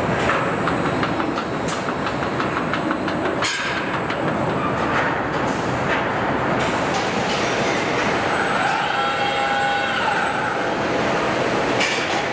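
Truck assembly line machinery making a steady industrial din, with rapid rattling and clanks, a sharp knock about three and a half seconds in, and a brief whine of several steady tones near the end.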